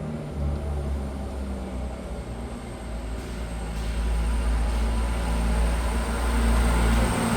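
Low, steady mechanical rumble that grows gradually louder.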